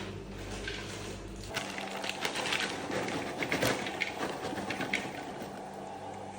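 Microwave oven running with a bag of popcorn popping inside: a steady hum, then from about a second and a half in, a quick, dense run of pops that stops suddenly at the end.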